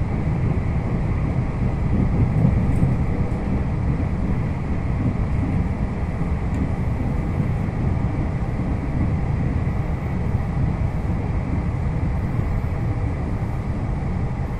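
Steady low running noise of a Puyuma express, a TEMU2000 tilting electric train, travelling at speed along the line.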